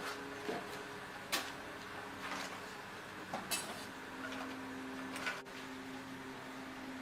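Scattered light clinks and knocks, about six, from tools and parts being handled during a washing machine repair, over a faint steady hum.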